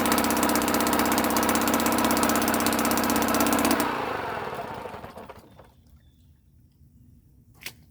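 British Seagull 40 Plus single-cylinder two-stroke outboard motor running steadily with a rapid even beat, then cutting off about four seconds in and dying away. A single sharp click near the end.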